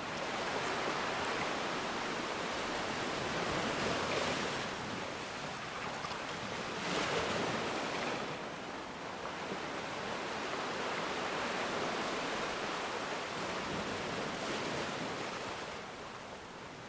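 Ocean waves breaking and washing on a shore, a steady rush of surf that swells and ebbs, with stronger breakers about 4 and 7 seconds in.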